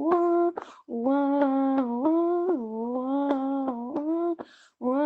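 A person humming a tune without words, holding notes that step up and down in pitch, with two short pauses for a breath, about a second in and near the end.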